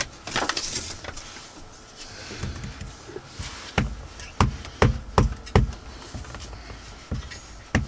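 Paper rustling as it is handled, then a run of about seven sharp taps and knocks on the work table as craft pieces and tools are picked up and set down.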